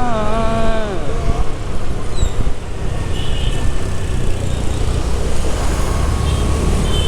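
Motorcycle riding noise: wind rushing over the microphone, with engine and traffic rumble underneath. A sung note glides down and fades out about a second in.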